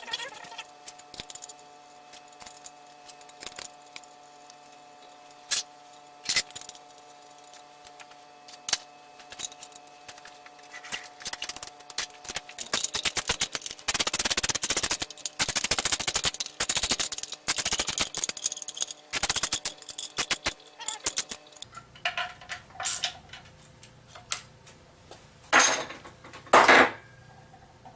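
Metal clutch parts and hand tools clinking and clicking as a pressure plate is fitted to a flywheel. Several seconds of rapid clicking come in the middle, and two short, louder rasps come near the end.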